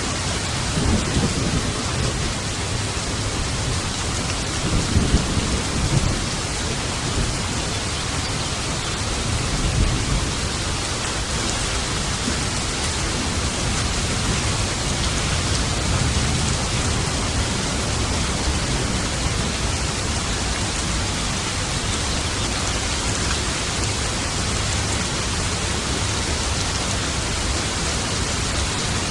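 Steady heavy rain with rumbles of thunder, the strongest swells about a second in, around five to six seconds, and near ten seconds.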